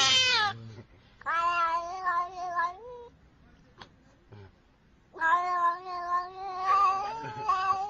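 A cat yowling in long, drawn-out, wavering calls: one ends just after the start, a second lasts about two seconds, and a third runs for about three seconds near the end.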